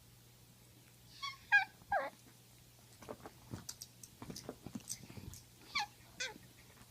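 Poodle making high-pitched whining cries: a cluster of short, bending squeaks about a second in, then two falling squeals near the end, with soft clicks in between.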